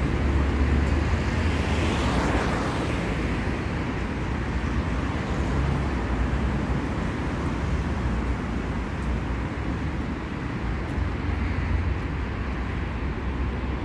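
City street traffic: a steady low rumble of cars, with one vehicle passing close about two seconds in.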